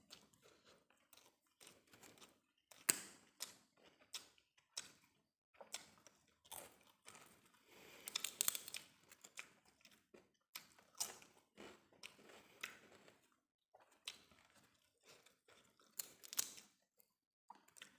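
Close-up mouth sounds of chewing steamed rice, broken by crisp, irregular crunches of a fried cassava cracker (opak). The crunches come in short bursts, loudest about three seconds in and in a dense cluster around the middle.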